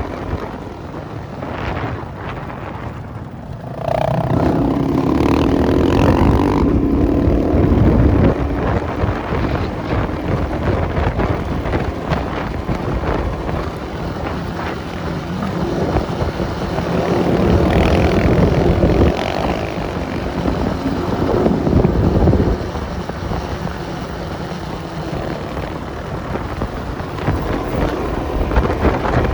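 Enduro motorcycle engine running as the bike is ridden over rough, muddy ground. The engine revs up about four seconds in and again in the middle, then drops back between.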